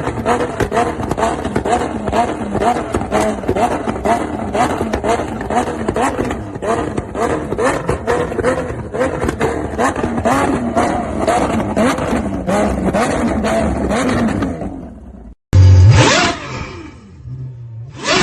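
Supercar engine and exhaust running with rapid, crackling pulses and wavering pitch for about fifteen seconds. After a brief dropout comes a sudden loud rush that falls in pitch, like a car passing, and a second short burst near the end.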